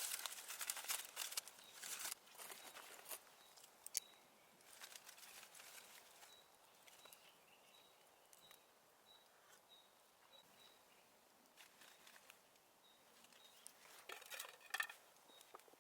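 Faint outdoor ambience: scattered crackles and rustling clicks near the start and again near the end, with a faint short high chirp repeated about every half second to second through the middle.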